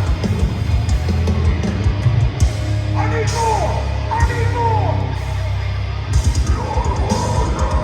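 Live heavy metal band playing loud, with down-tuned distorted guitars and drums; fast, dense drum hits come in about six seconds in.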